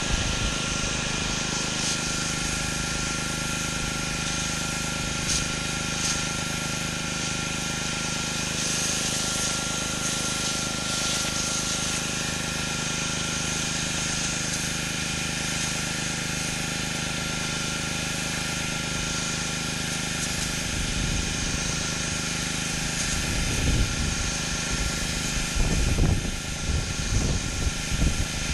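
Pressure washer at work on concrete: the steady hiss of the high-pressure water spray over the machine's constant engine tone. Uneven low rumbling joins in during the last third.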